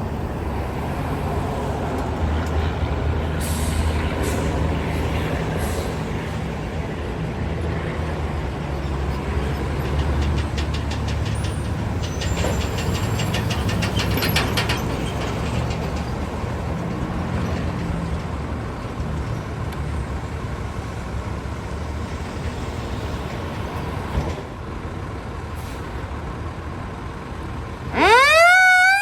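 Fire engine's engine running steadily. About a second before the end, a Federal Q mechanical siren starts winding up in a fast rising howl.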